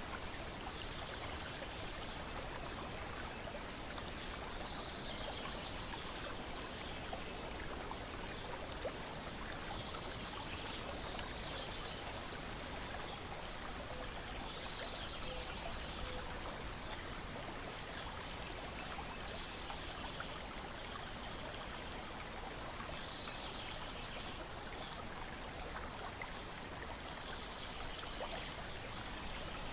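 Lake water lapping and splashing against a shoreline and deck, a steady wash with soft swells every few seconds. A few faint crackles, typical of a wood fire, sound here and there.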